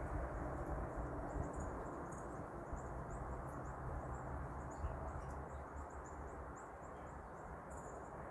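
Small songbirds giving many short, high-pitched chips and tweets, scattered through, over a steady low background rumble.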